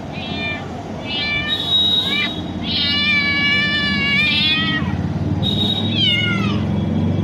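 Domestic cat meowing over and over: four or five meows that bend in pitch, the longest drawn out for about two seconds.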